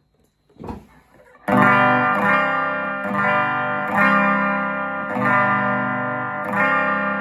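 Telecaster on its neck pickup played through the normal channel of a restored circa-1965 Gibson GA-25RVT Hawk amp, sounding clean. After about a second and a half of near quiet, full chords are strummed and left ringing, with a fresh strum about every second.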